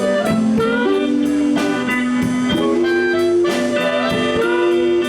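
Live blues band playing an instrumental fill between sung lines: a blues harmonica holding and bending notes over bass, guitar and steady drum beats.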